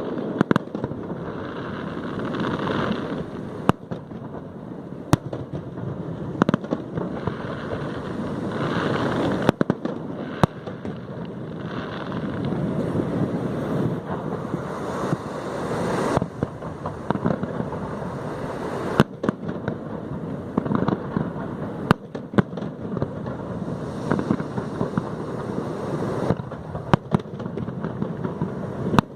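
Fireworks display: a continuous crackle of bursting shells with many sharp bangs scattered through it and swells of louder crackling.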